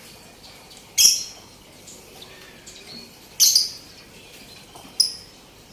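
Birds calling: three short, sharp, high-pitched calls about a second, three and a half seconds and five seconds in, over faint twittering.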